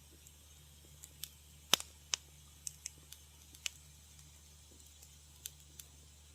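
Wood fire crackling: scattered sharp pops and snaps at irregular intervals, the loudest a little under two seconds in.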